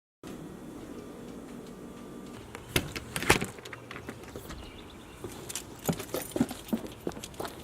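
Small metal objects clinking and jangling, like keys, over a low steady hum, with a louder knock about three seconds in.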